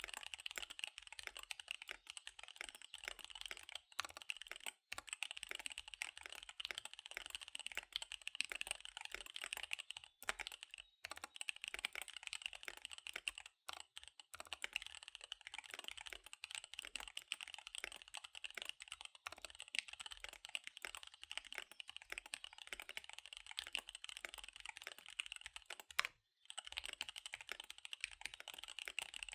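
Fast typing on a KBD75 V3 mechanical keyboard with SP-Star Dark Magic Girl tactile switches and DSA keycaps: a dense, rapid run of keystrokes broken by a few brief pauses.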